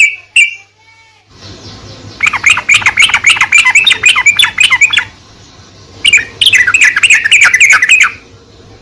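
Yellow-vented bulbul (trucukan) song: two short calls, then two long runs of rapid chirping notes, the first about three seconds long and the second about two seconds long. A steady background hiss and hum comes in about a second in.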